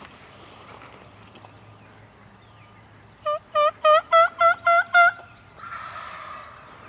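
Turkey yelping: a run of seven evenly spaced, pitched notes, about four a second, lasting under two seconds, followed by a softer hiss.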